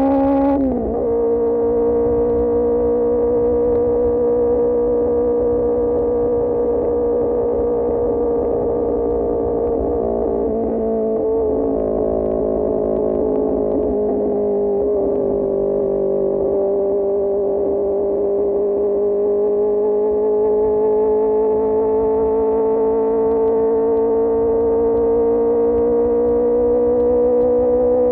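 QJMotor SRK600 inline-four engine through an Austin Racing GP1R exhaust, running steadily under way. Its pitch drops sharply about a second in, then slowly sags and slowly rises again, over low wind and road noise.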